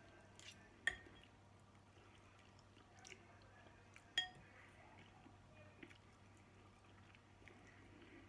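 Quiet eating sounds with a few faint tableware clinks; the two sharpest are about a second in and about four seconds in.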